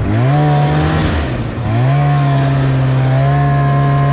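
Snowmobile engine revving up, easing off about a second and a half in, then accelerating again and holding a steady high pitch.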